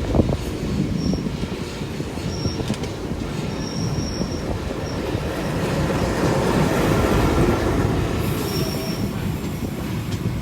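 Passenger train in motion: a steady rumble of coaches rolling on the rails, with a few sharp clicks at the start. It grows louder past the middle, and brief faint high-pitched squeaks come and go.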